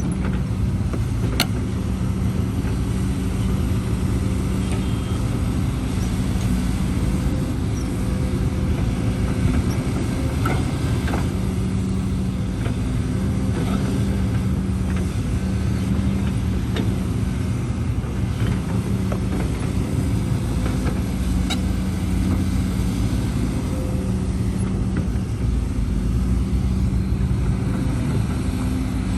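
Heavy diesel engine running steadily at an even speed, with a few light clicks over it.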